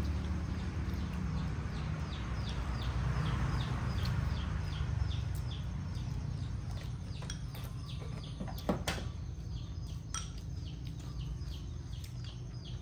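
A bird calling steadily, a short high falling chirp repeated two or three times a second, over a low steady rumble. A single sharp click about nine seconds in.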